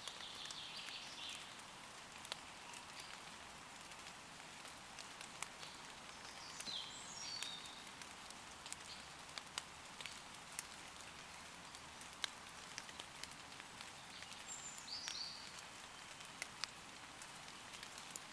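Gentle rain falling on forest leaves: a steady patter with many separate drops ticking. A woodland bird gives short high chirps three times, near the start, about seven seconds in, and about fifteen seconds in.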